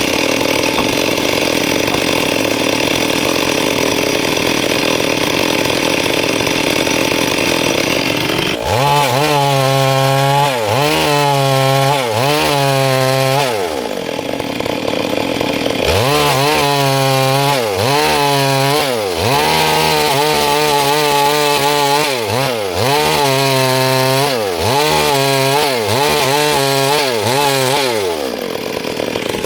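Stihl MS 382 two-stroke chainsaw running at full throttle in a steady cut, then its engine speed falling and rising over and over, about once a second, before settling back to a steady high run near the end.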